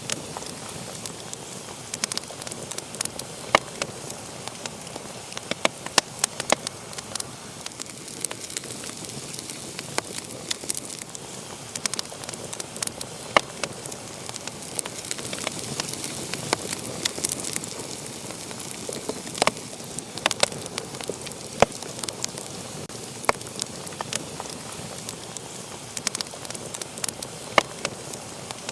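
Wood fire crackling and popping, with irregular sharp snaps over a steady hiss.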